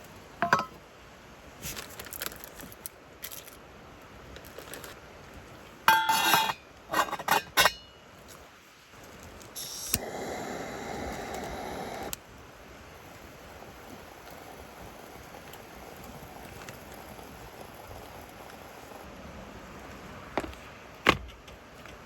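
Dishes and cookware clinking and knocking together in several short bursts, some ringing briefly. A steady hiss runs for about two seconds midway.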